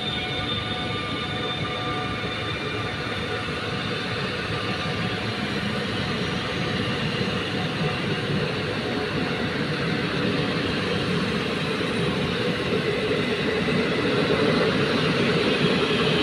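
An electric locomotive-hauled passenger train passing close by: a whining tone from the locomotive fades in the first few seconds, then the steady rolling rumble of the passenger coaches on the rails, growing louder near the end.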